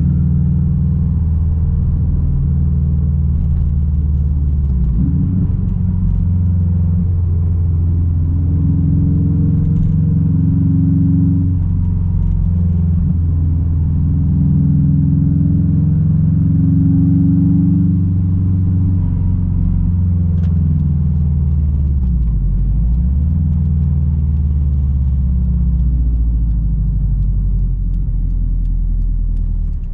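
Straight-piped exhaust of a 2006 Subaru WRX STI's turbocharged 2.5-litre flat-four while driving: a loud, steady low drone that changes pitch a little about five seconds in, then dips and climbs again about two-thirds of the way through.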